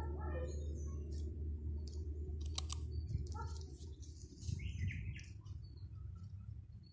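Scattered short bird chirps at varied pitches, with a few sharp clicks about halfway through, over a steady low rumble.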